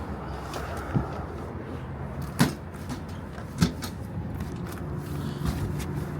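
Three sharp knocks about a second apart over a steady low hum, the loudest two to three and a half seconds in.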